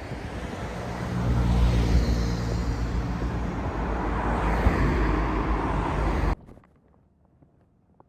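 Ducati Streetfighter 848's L-twin engine running through a Termignoni exhaust, growing louder about a second in. The sound cuts off abruptly about six seconds in, leaving near silence.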